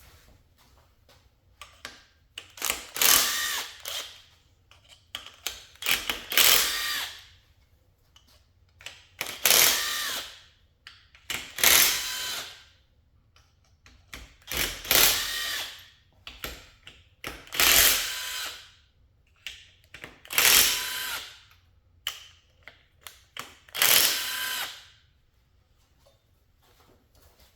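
A drill-type power tool spinning in about eight short bursts of roughly a second each, a few seconds apart, each with a whine, as the valve cover bolts on a Ford 3.0L V6 are run out one by one.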